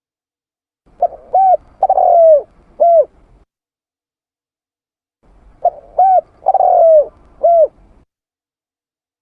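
Spotted dove (tekukur) cooing, a lure-call recording: the same phrase twice, about four and a half seconds apart. Each phrase is a short note, a rising-and-falling hooked note, a longer falling note and a last hooked note.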